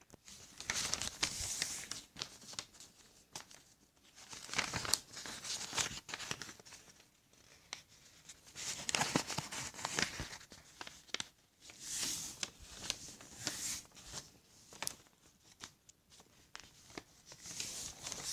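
A sheet of paper being folded and creased by hand: irregular rustling and crinkling with sharp crisp snaps as the folds are pressed flat, in short bursts with brief pauses between.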